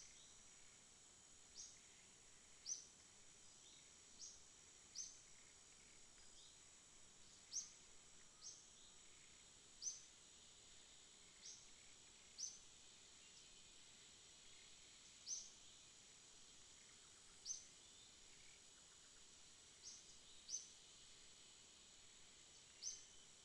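Faint night-time insect chorus: a steady high-pitched trill, with short high chirps repeating irregularly every second or two.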